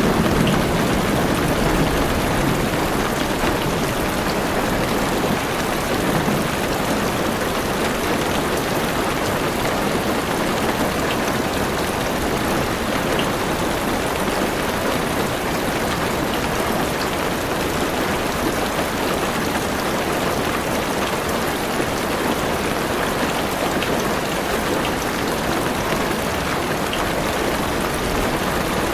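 Heavy rain falling steadily on a car's roof and windows, heard from inside the car, with scattered sharp drop taps. A low thunder rumble fades out in the first couple of seconds.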